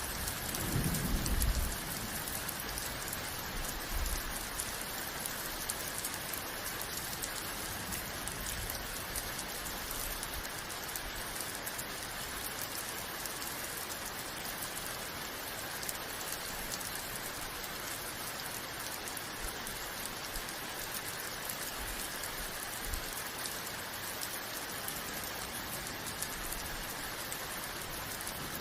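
Steady, even rain falling, a dense hiss of drops with no let-up. A brief low rumble swells and fades about a second in.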